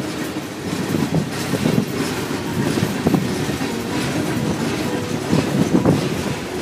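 Freight train of tank cars and covered hopper cars rolling past close by: a steady rumble of steel wheels on the rails, broken by irregular wheel clacks, several of them near the end.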